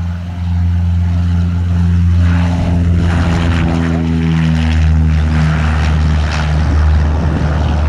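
Single-engine light aircraft's piston engine and propeller running loud during a touch-and-go, a steady low drone with its tone shifting and growing harsher from about two seconds in.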